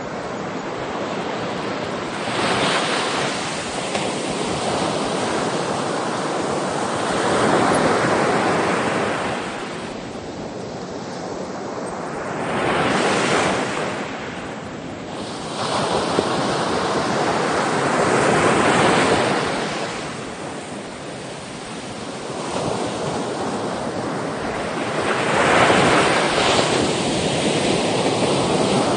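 Sea waves breaking and washing on a shore, a steady rush of surf that swells and ebbs with each wave, about every five or six seconds.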